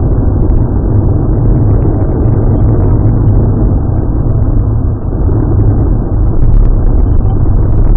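Car engine and road noise heard inside the car through a dashcam microphone: a steady, muffled low rumble.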